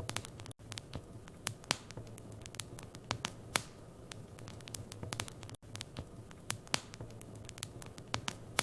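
Wood fire crackling in a fireplace: irregular sharp pops and snaps over a steady low rumble of the flames. The sound cuts out for an instant twice, about half a second in and about five and a half seconds in.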